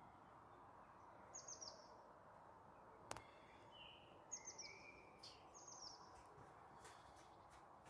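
Faint outdoor background with birds calling: short, quick descending chirp phrases repeat every few seconds, with a few whistled notes between them, over a steady low hiss. A single sharp click about three seconds in.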